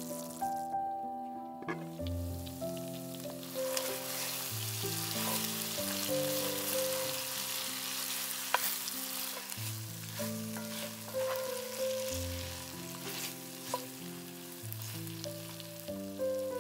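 Chicken wings sizzling in a thick soy, honey and cola glaze in a cast-iron skillet. A wooden spatula stirs them, with a few sharp taps and scrapes against the pan. Soft background music runs throughout, and the sizzling sets in about two seconds in.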